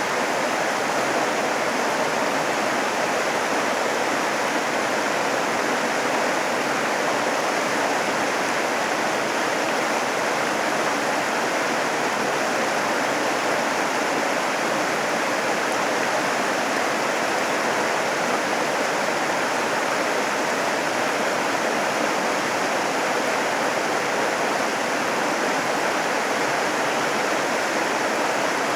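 Steady rushing of running water, an even hiss with no pauses or distinct events.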